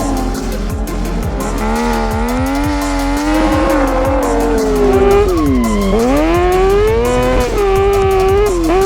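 A drifting vehicle's engine revving and tyres squealing. The pitch swings up and down repeatedly and drops sharply about six seconds in before climbing again.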